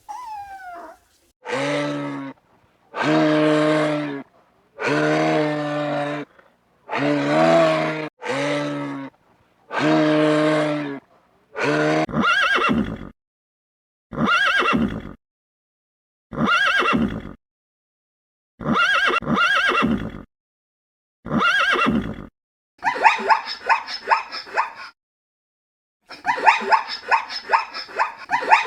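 A string of separate animal calls, ending in a horse's fluttering whinnies. First comes a run of about six long, low calls in a row, then about six shorter, higher calls that rise and fall in pitch, and near the end two stretches of fast, fluttering whinnying.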